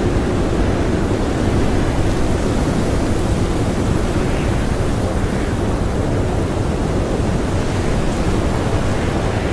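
Blizzard wind blowing steadily: a loud, even rush of noise, heaviest in the low range, with no gusts or whistles standing out.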